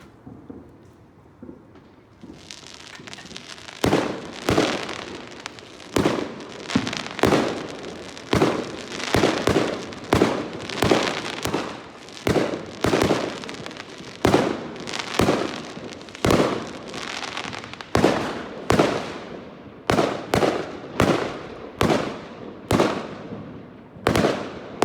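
Fireworks going off in a rapid barrage: after a building hiss, sharp bangs follow one after another from about four seconds in, one or two a second, each trailing off in a short echoing crackle.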